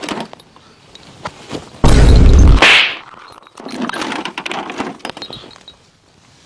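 A sudden, very loud crash-like blast about two seconds in, lasting just under a second, followed by quieter scattered knocks and rustles.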